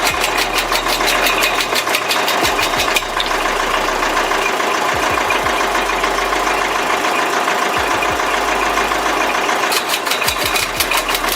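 An engine-driven machine running steadily, with a rapid, regular knocking of about four beats a second at the start and again near the end.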